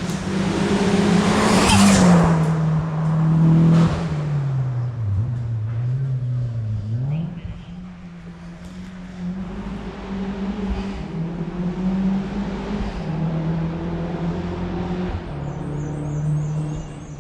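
Hillclimb race car engine running hard as the car passes by, loudest about two seconds in. The engine note dips in pitch for a couple of seconds, jumps back up sharply, and then carries on more quietly as the car climbs away.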